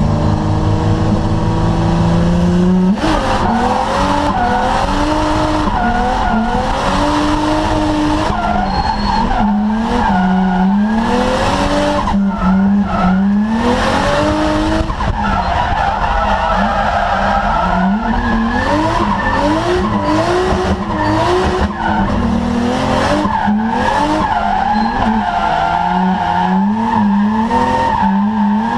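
R33 Nissan Skyline drift car engine revving hard. It holds a steady note for the first few seconds, then rises and falls over and over as the throttle is worked through the corners. Tyres skid and squeal underneath.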